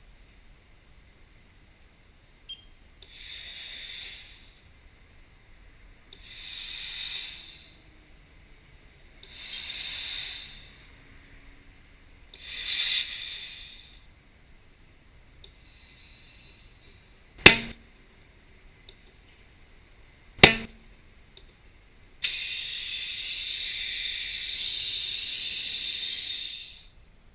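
Compressed air hissing in four short blasts, then two sharp bangs about three seconds apart, typical of a motorcycle tyre's bead snapping onto the rim during inflation, then a long steady hiss of air.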